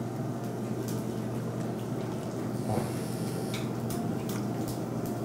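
A person chewing a mouthful of beef close to the microphone: soft mouth sounds with small scattered clicks.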